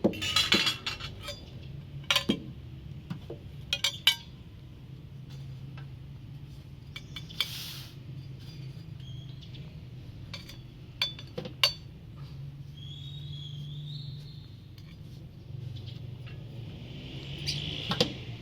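Scattered clinks and knocks of dishes and utensils being handled, most frequent in the first few seconds, over a low steady hum.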